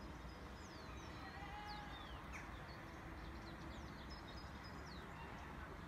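Birds calling: short chirps and quick down-slurred whistles scattered throughout, faint, over steady low background noise.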